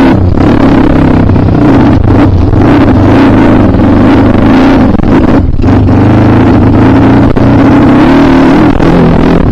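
Loud single-cylinder dirt-bike engine running under throttle while riding, with a brief let-off of the throttle about five and a half seconds in.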